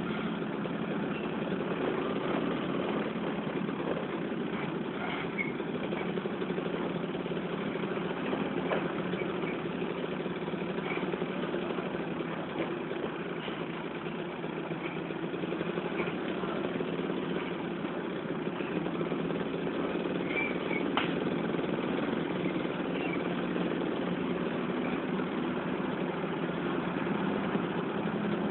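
Diesel engine of a Mercedes-Benz 917 truck running steadily, with no clear revving.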